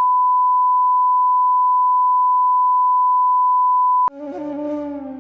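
A steady 1 kHz test tone, one pure pitch, that cuts off abruptly about four seconds in, followed by instrumental music with long held, slowly gliding melodic notes.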